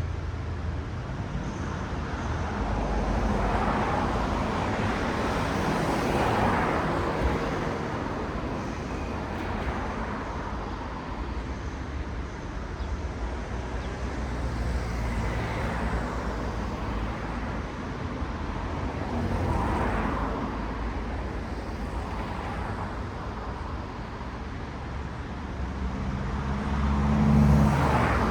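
Road traffic with cars passing one after another, each swelling and fading away over a steady hum; the loudest pass-by, with a low engine drone, comes near the end.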